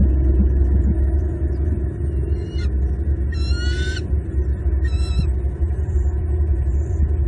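Bald eagle calling in three short bouts of rapid, high, slightly falling chirps, over a steady low rumble.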